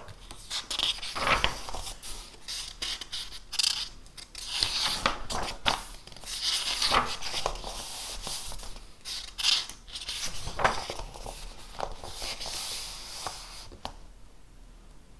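Paper and stationery being handled on a desk: irregular scraping and rustling with small clicks, settling down about a second before the end.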